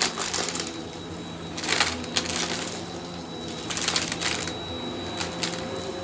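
Bissell vacuum running over a shag rug, its motor humming steadily with a thin high whine, while picked-up debris rattles and crunches through it in bursts every second or two.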